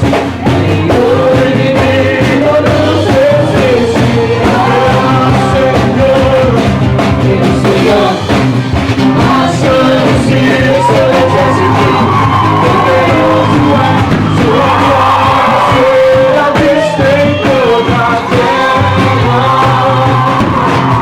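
A group of people singing loudly together over musical accompaniment, with some shouting among the voices.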